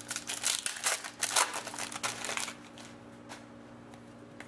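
Hockey trading cards being handled and slid past one another by hand: a quick run of papery rustles and clicks over the first two and a half seconds, then only a faint steady hum.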